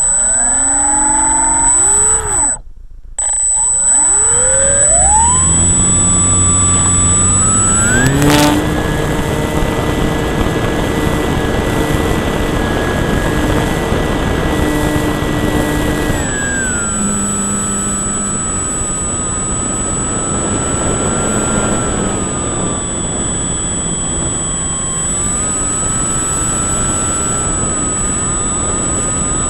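Electric brushless motor and propeller of a Durafly Cessna 182 RC model plane, heard close up from the cowl. The whine spins up, cuts out briefly about three seconds in, climbs steadily to full throttle and holds there, then drops to a lower steady pitch about halfway through. Rushing air noise runs underneath.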